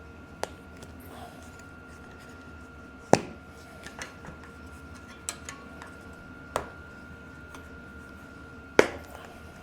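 Scattered sharp clicks and snaps, about six of them with the loudest about three seconds in and near the end, as a mountain bike tire's bead is worked onto the rim over a flat-proof foam insert.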